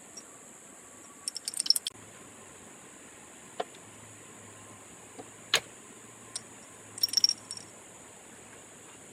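Eating utensils clinking against metal dishware: a few quick clusters of light metallic clinks with single taps in between.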